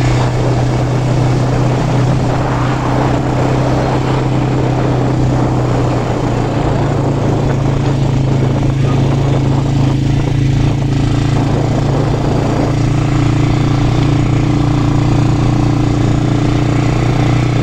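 Quad bike engine running steadily while riding, with a constant hum and a rushing haze of wind and road noise over it.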